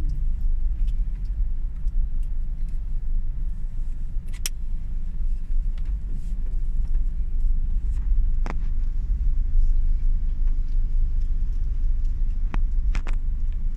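Steady low road and engine rumble inside a moving car's cabin, with a few sharp clicks along the way.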